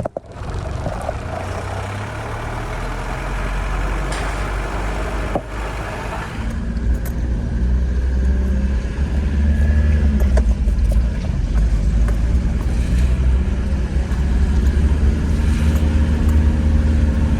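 Nissan Terrano D21 4x4 engine running while the truck is driven, a steady low hum that grows louder about six seconds in as it picks up speed.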